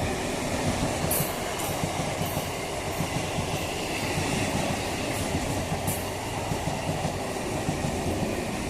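Electric multiple-unit (EMU) local train running through a station without stopping: a steady rumble of its coaches, with the wheels clattering rapidly over the rail joints.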